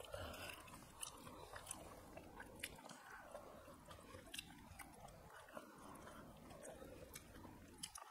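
Faint chewing of rice and fish curry eaten by hand, with scattered sharp clicks.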